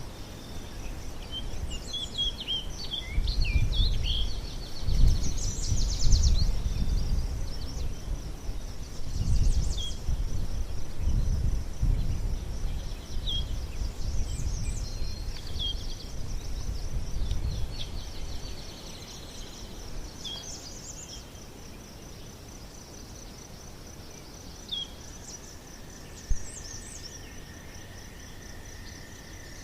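Small birds chirping over a steady, high insect trill, with a low rumble that swells and fades through the first half.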